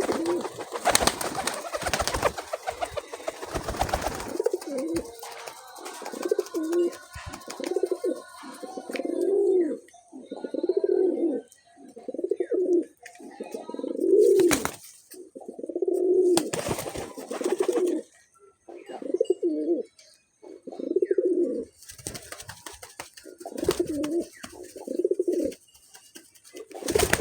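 Domestic pigeon cooing over and over in low, throaty phrases about a second long with short gaps between. Bursts of noise come in among them, mostly in the first few seconds and again in the second half.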